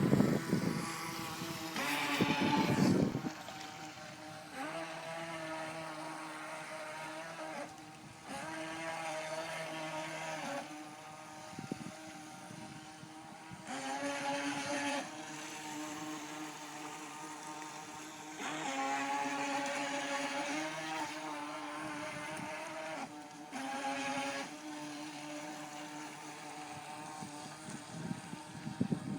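Twin-motor battery-powered RC race boat running on the water: a whining motor note that rises and falls in pitch and loudness as the throttle is opened and eased. It comes in a series of bursts a few seconds long, the loudest about two to three seconds in.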